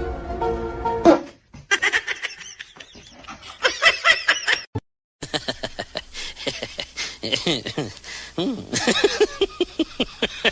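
People laughing in short home-video clips, in rapid repeated bursts, with a brief silent cut about halfway. A stretch of background music cuts off about a second in.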